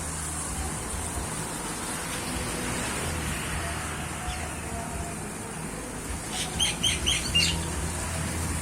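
Birds in a large aviary calling, with a quick run of about five sharp, high calls a little after six seconds in, over a steady low background rumble.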